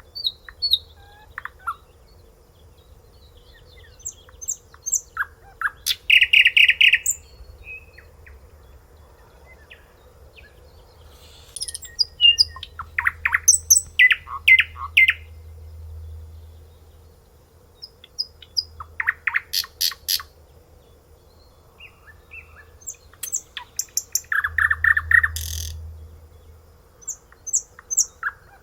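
A songbird singing in separate phrases of rapid repeated chirping notes every few seconds, with a faint low rumble underneath.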